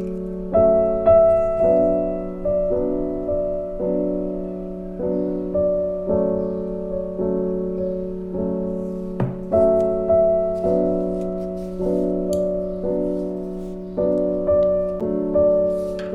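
Background music: a slow solo piano piece, with chords struck at a steady pace of about one a second.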